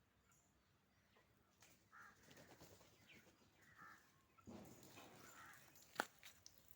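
Mostly quiet, with a few faint, short bird calls spaced a second or two apart and one sharp click near the end.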